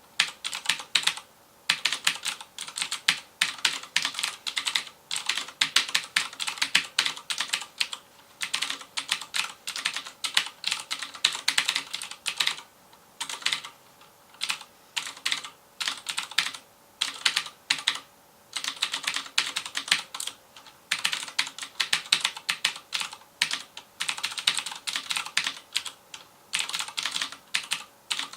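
Fast typing on a FILCO Majestouch Convertible 2 mechanical keyboard with Cherry MX Blue switches: bursts of sharp clicking keystrokes, each run a second or two long with brief pauses between.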